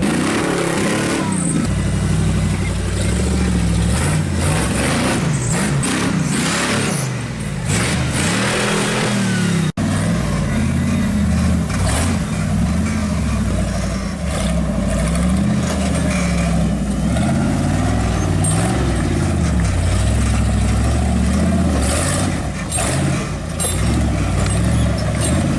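Rock-racing truck's engine revving repeatedly, the pitch rising and falling as it works up a rock course. There is a sudden brief drop-out about ten seconds in, then the revving carries on.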